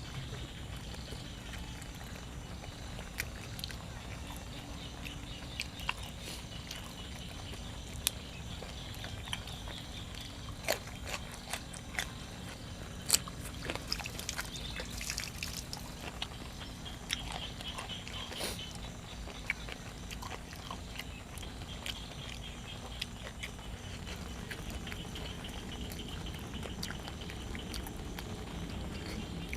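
A person eating close to the microphone: chewing, mouth smacks and clicks scattered irregularly throughout, over a steady background hiss.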